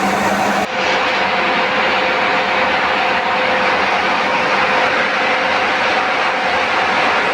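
Power tool cutting the steel of a belt frame: a loud, steady hiss with a constant whine, which changes abruptly about two-thirds of a second in.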